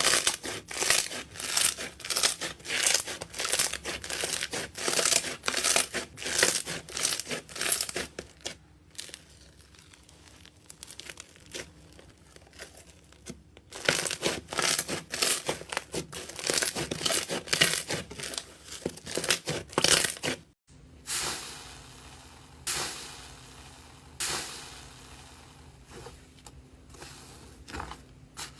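Slime being squeezed and stretched by hand, giving off dense runs of small crackling pops. There is a quieter spell in the middle, and after a short break near the end the pops come fewer and softer.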